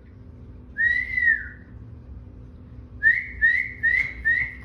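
Parrot whistling: one long arched whistle that rises and then falls, followed near the end by four short rising whistles in quick succession.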